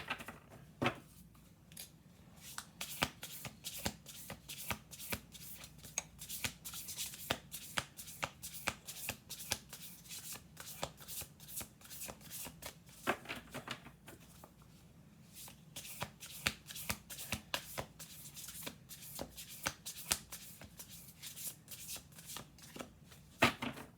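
An Urban Crow Oracle card deck being shuffled by hand: a long run of quick papery card snaps and slides, with a few denser flurries.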